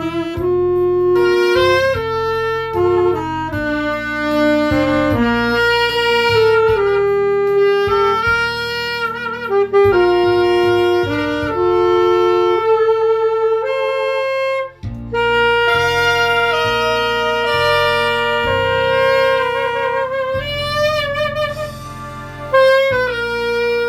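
A saxophone plays a slow melody in long held notes with vibrato over a backing accompaniment with bass. There is a brief break between phrases about fifteen seconds in.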